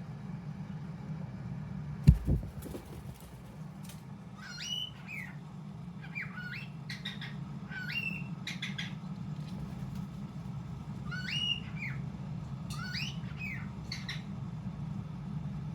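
A young cockatiel making a run of short chirping, whistled calls that rise and fall in pitch, in about six phrases during the latter two-thirds. A single loud thump comes about two seconds in, over a steady low hum.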